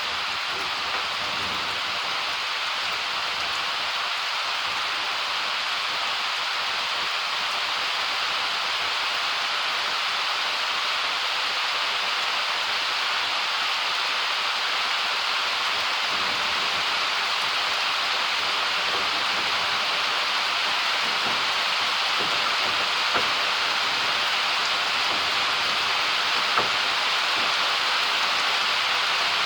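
Steady, heavy summer rain pouring down, growing slightly heavier, with a couple of sharper drips near the end.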